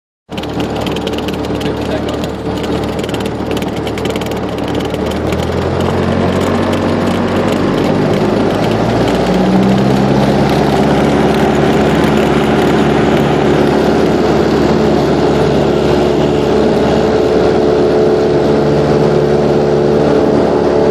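Cessna 172's piston engine and propeller running. The pitch steps up about five seconds in and again about nine seconds in, then holds steady and a little louder as power is increased.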